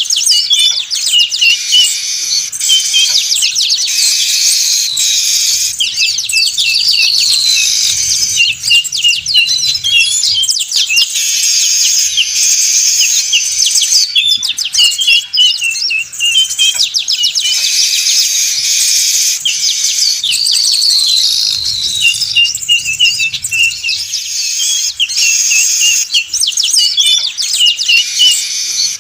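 A flock of weaver birds (manyar) chattering noisily: a dense, unbroken chorus of overlapping rapid chirps and trills. This is a bird-trapping lure recording whose pattern repeats about every 14 seconds.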